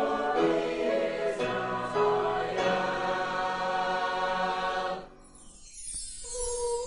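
A student choir singing in chords, with the final chord held until it stops about five seconds in. After a brief pause, voices start humming a sustained note near the end.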